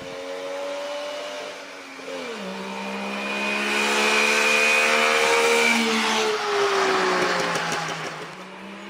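Three-cylinder car engine under throttle. Its pitch drops sharply about two seconds in, then climbs as it gets louder, and falls and fades near the end.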